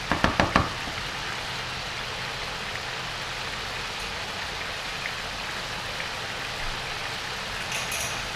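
Chicken adobo sizzling and simmering steadily in a wok. A quick run of about five knocks from a wooden spatula against the pan at the start.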